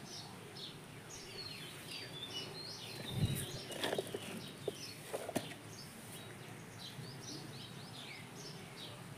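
Small birds chirping, short quick downward-sliding notes repeated again and again over a faint outdoor background. About three seconds in there is a soft low thump, followed by a few light knocks over the next couple of seconds.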